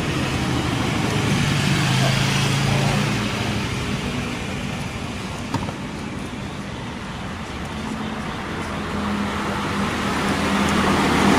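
Road traffic going by: vehicle engine hum and tyre noise swelling, easing off, then swelling again near the end.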